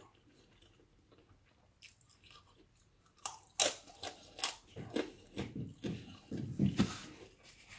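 A person chewing a mouthful of food, crunching and smacking. It starts about three seconds in, after a quiet start, and grows busier before tailing off near the end.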